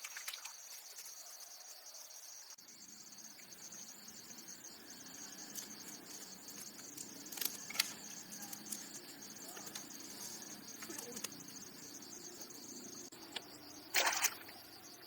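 Steady high-pitched insect chorus, with a few light knocks around the middle and a short, louder noise near the end.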